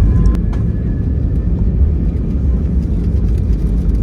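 Loud, steady low rumble inside the cabin of an Airbus A320 airliner during landing: engine and airflow noise.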